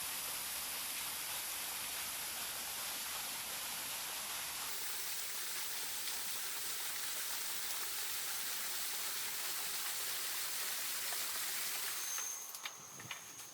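Steady rushing of falling water. Near the end it gives way to quieter background with a thin, high, steady insect tone and a few faint ticks.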